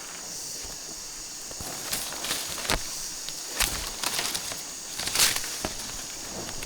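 Scattered sharp crackles and knocks over a steady high-pitched hiss, the loudest crackle about five seconds in.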